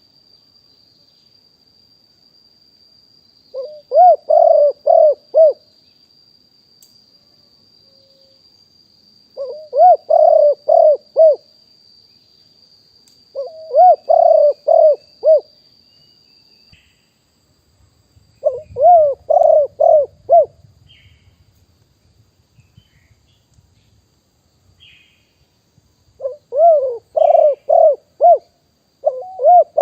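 Spotted dove cooing: phrases of four or five low, rounded coos, each phrase about two seconds long, repeated five times with a few seconds' pause between, and a sixth phrase starting at the very end.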